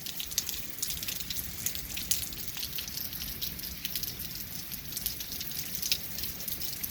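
Rain falling as a hailstorm eases, with many scattered sharp ticks of drops striking hard surfaces over a steady hiss.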